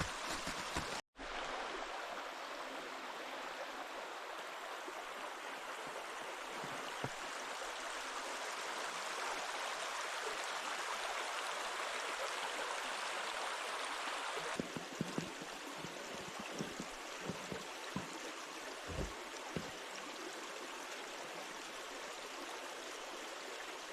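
A brook running steadily: an even rushing of flowing water. It cuts out briefly about a second in and drops slightly in level about halfway through, with a few soft low bumps after that.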